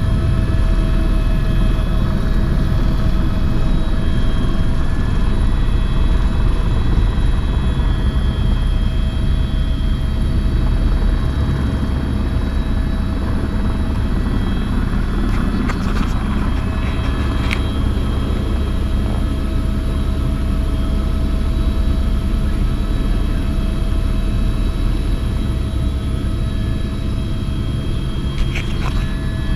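Helicopter in flight, heard on board: a steady, loud rotor and engine drone with constant tones and no change in pitch. A few faint clicks come about halfway through and again near the end.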